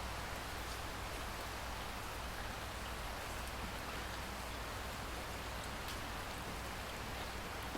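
Steady rain falling, an even hiss with a few faint, sharp drips.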